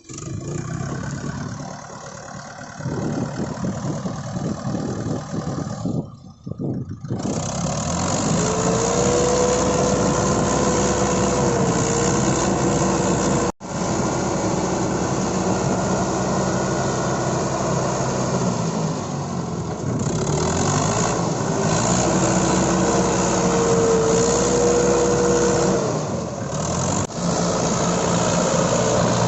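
Tractor diesel engine running hard, twice revving up, holding, and dropping back, as when working in soft mud.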